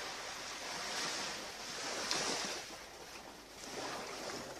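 Ocean surf washing onto a beach, an even rush that swells and ebbs, loudest about two seconds in.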